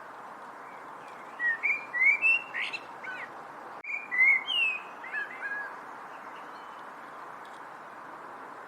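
A songbird singing two short bursts of quick, sliding whistled notes, about a second and a half in and again about four seconds in, over a steady background hiss.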